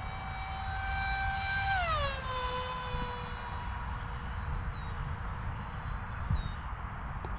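Small electric RC plane's brushless motor and propeller (AtomRC 2004 2400kv with a 5x3 prop) whining steadily in flight; the whine's pitch drops about two seconds in and then holds lower.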